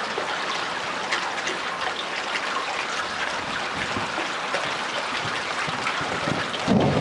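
Steady rain falling, an even hiss of water, with a short low rumble near the end.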